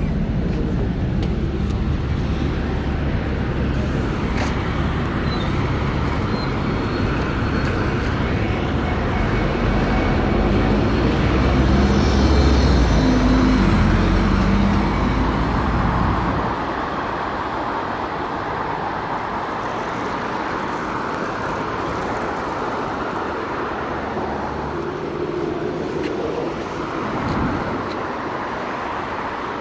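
Road traffic on a wet city avenue in the rain: a continuous hiss of tyres and rain over passing engines. A heavier engine rumble swells about a third of the way in and drops away a little past the middle.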